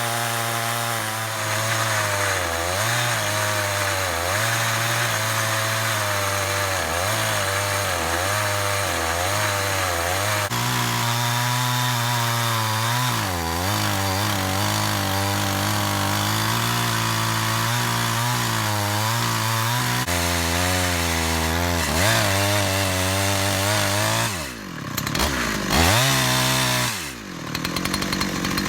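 Holzfforma G372XP chainsaw, a Husqvarna 372XP clone, running under load while ripping lengthwise through a log in an Alaskan chainsaw mill with an 18-inch bar and ordinary crosscut chain. The engine pitch wavers as it labours in the cut. Near the end the engine speed drops and rises sharply a couple of times.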